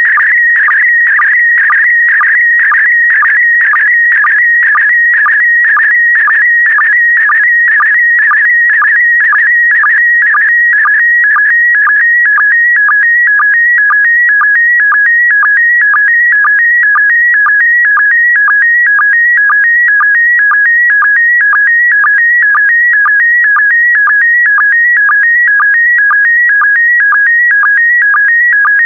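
PD120 slow-scan TV signal transmitting an image: a loud, high warbling tone whose pitch jumps about rapidly, broken by a short regular pulse about twice a second as each pair of picture lines begins.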